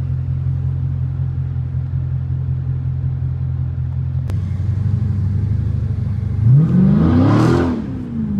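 Straight-piped Dodge Challenger Scat Pack's 6.4-litre HEMI V8 droning steadily at cruise. About six and a half seconds in it revs up hard, the pitch rising and then falling back about a second later.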